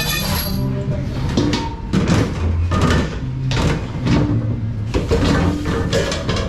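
Dishes and kitchenware clattering: an irregular run of knocks and clacks, about two a second, over a steady low hum.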